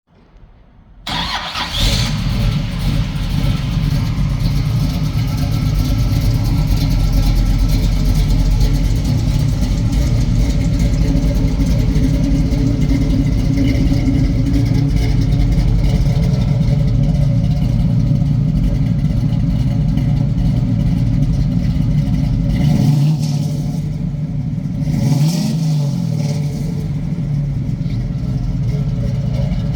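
1969 Chevrolet Camaro's 383 small-block V8 starting about a second in, then idling steadily, with two short revs near the end.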